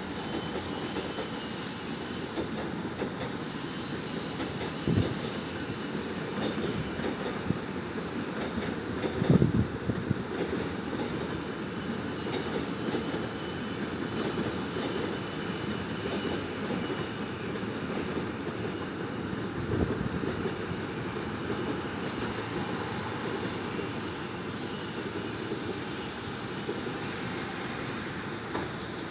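Steady low rumble of a train in motion, broken by a few short thuds about five, nine and twenty seconds in.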